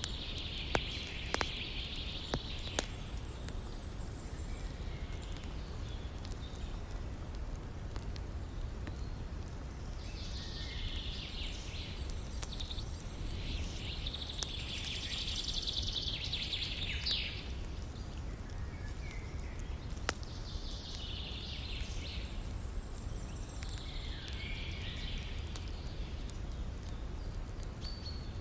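Wood campfire crackling with scattered sharp pops over a steady low rush of river water. Birds chirp in several bursts, the longest starting about ten seconds in.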